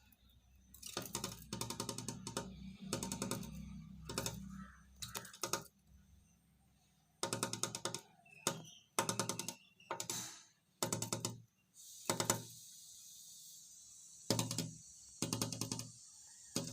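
Small bird pecking rapidly at window glass: bursts of quick taps, a dozen or so bursts separated by short pauses.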